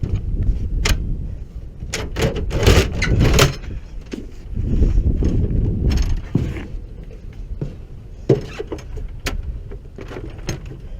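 Irregular metallic clicks, clinks and rattles, thickest about two to three and a half seconds in, over a steady low rumble.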